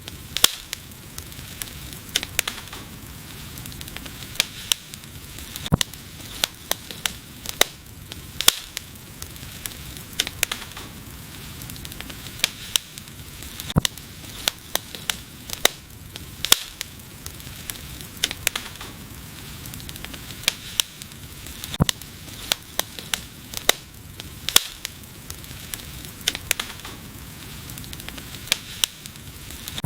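Wood fire crackling: frequent irregular sharp pops and snaps over a steady soft hiss of burning.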